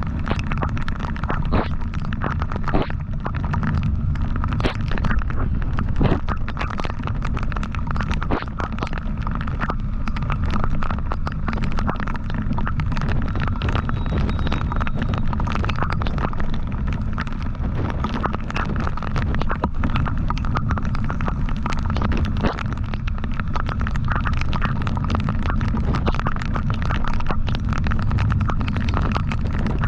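Wind buffeting the microphone and road noise on a moving motorcycle: a steady low rumble with frequent short pops throughout.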